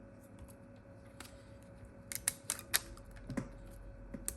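Scattered sharp clicks and light taps of a smartphone being handled on a workbench as rubber bands are stretched around it to clamp its freshly glued back glass, with a quick run of about five clicks around the middle and two more near the end.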